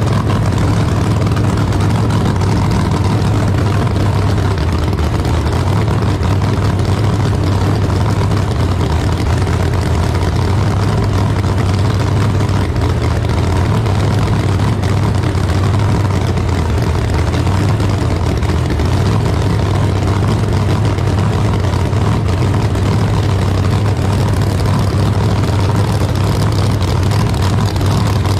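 Drag-racing car engine idling steadily and loudly, with no revving.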